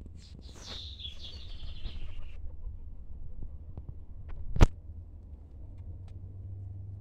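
A high, rasping bird sound for about the first two seconds, then a single sharp click about four and a half seconds in, over a steady low rumble.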